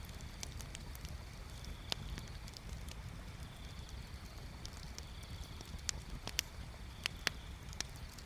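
Campfire crackling: scattered sharp pops and snaps of burning wood, a few louder ones in the second half, over a steady low rumble.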